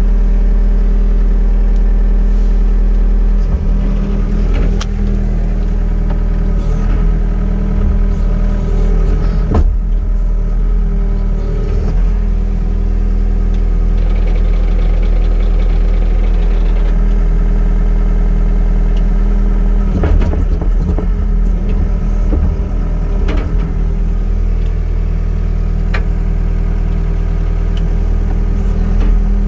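John Deere 324E skid steer's Yanmar 3.3 L four-cylinder diesel running steadily, with several short knocks scattered through.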